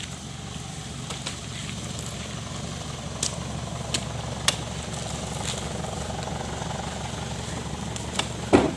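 Diesel truck engine idling steadily, with scattered sharp knocks and a louder thud near the end as oil palm fruit bunches are loaded by hand.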